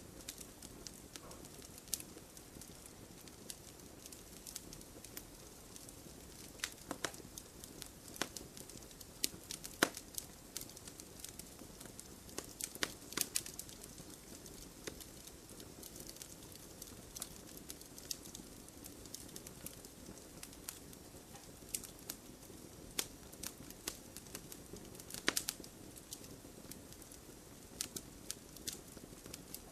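Campfire burning, a soft steady rush of flames under irregular crackles and pops of burning wood, a few sharper pops standing out.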